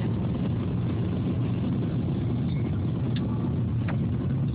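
Steady low road and engine noise of a car while driving, heard from inside the cabin.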